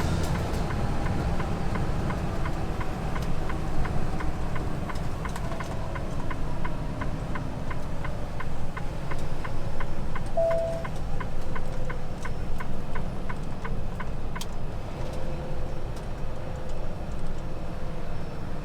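Semi truck cab interior on the road: steady engine and road rumble, with an even run of quick ticks, about two to three a second, through the first half, and a short beep about ten seconds in.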